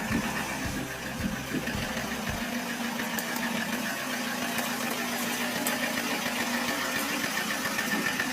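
Truck engine idling with a steady hum, with a few low thumps in the first couple of seconds.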